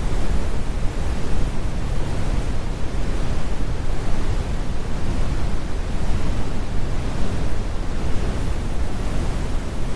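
Synthetic brown noise: a steady, deep rumble of hiss, heaviest in the bass and rolled off in the treble.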